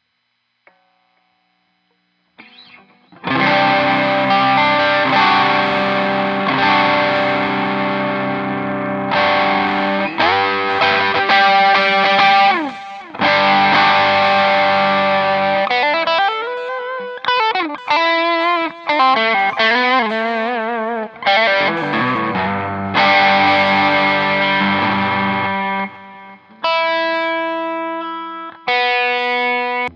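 Clifton Alnico Stratocaster electric guitar played through distortion, coming in after a couple of seconds of silence. It plays held chords, then slides, wavering vibrato-bent notes in the middle, and a few separate held notes near the end.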